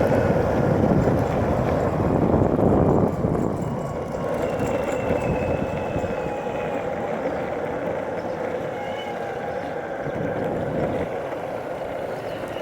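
A vehicle's motor running with a faint whine on top, loudest for the first three seconds and then fading steadily as it draws away.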